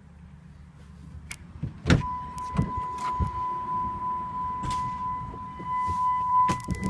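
A steady electronic warning tone from the Dodge Ram's cab comes on with a click about two seconds in and holds. Scattered clicks and knocks of handling in the cab sound around it.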